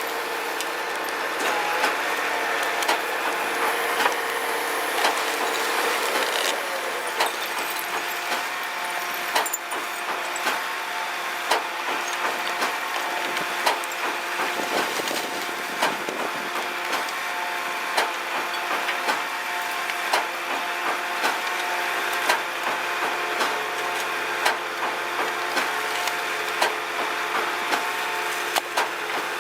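Walking floor trailer running: a steady hydraulic whine with frequent sharp knocks and cracks as the moving floor slats shift the load.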